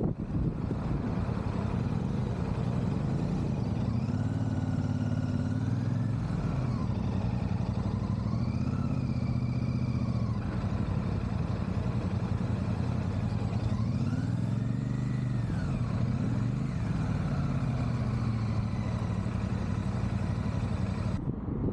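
Royal Enfield 650 parallel-twin motorcycle engine running under way, mixed with wind rush. Its pitch rises and levels off a few times and swells and falls once more near the middle, as the bike speeds up and the rider works the throttle.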